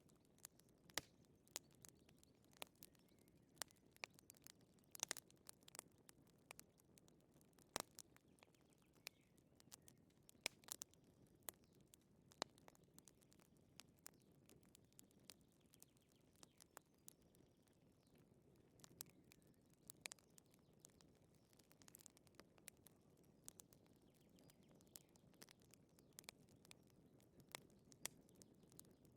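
Wood fire crackling quietly: irregular sharp pops and snaps, a few each second, over a faint low hiss.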